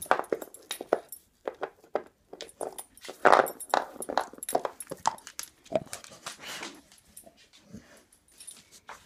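Dog chewing on an antler and making pig-like noises, in short irregular bursts mixed with clicks, loudest about three seconds in and quieter toward the end.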